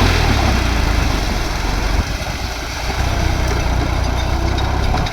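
New Holland tractor's diesel engine running steadily with a heavy low rumble, which eases slightly about two seconds in.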